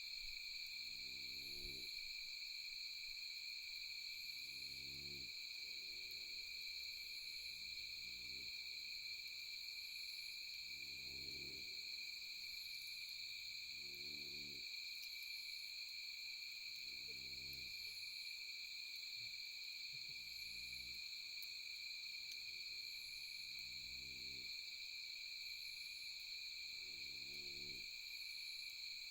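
Night insect chorus trilling steadily and high, with a deep animal call about a second long repeating every three seconds or so.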